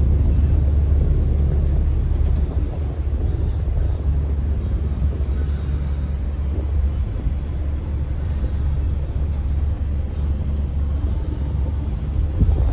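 River tourist boat under way: its engine running with a steady low rumble, mixed with wind buffeting the microphone on the open upper deck.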